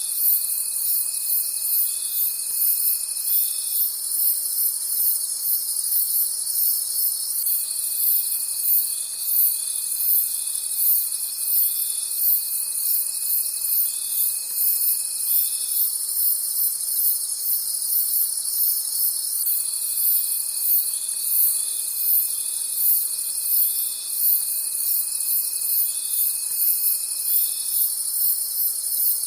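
Crickets chirping steadily at night in a fast, even, high-pitched rhythm. A lower steady tone comes in for several seconds at a time and drops out, three times over.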